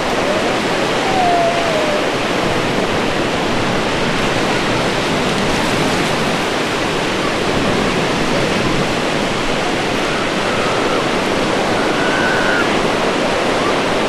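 Ocean surf washing onto a beach: a loud, steady rush of breaking waves. A few faint, short high-pitched cries sound over it.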